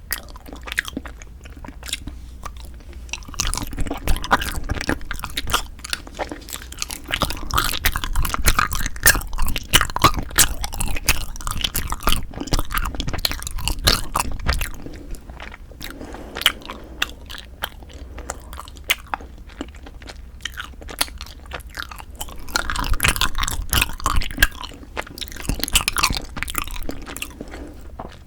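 Close-miked chewing and biting of Kiri cream cheese ice rice cakes, with dense, crackly wet mouth sounds. The chewing is busiest from about four seconds in until about fifteen, quieter for a while, and busy again near the end.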